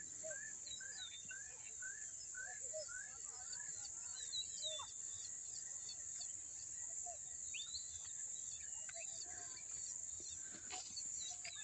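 Rural morning ambience: a steady high-pitched insect trill of crickets, with a bird repeating a short chirp about two times a second through the first three seconds and other scattered bird calls.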